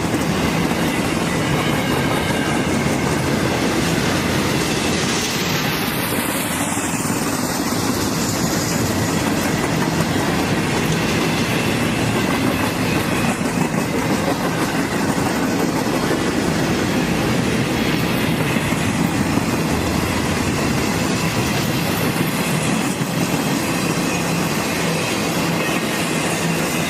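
Norfolk Southern freight train cars rolling past, a steady loud rumble and clatter of steel wheels on the rails.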